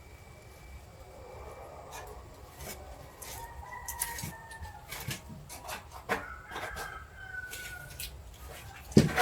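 A rooster crowing in the background: a few long drawn-out calls. Several sharp knocks cut across them, the loudest near the end.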